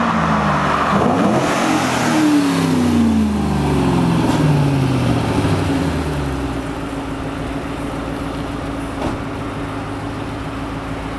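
2006 Ford Mustang GT's 4.6-litre V8 through a Pypes mid-muffler exhaust, its note falling as the car slows over the first six seconds or so, then settling into a steady idle.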